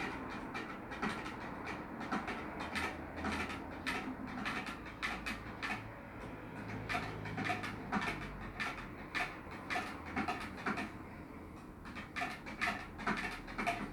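A spoon stirring liquid in a cup, clinking irregularly against the side several times a second, some taps ringing briefly.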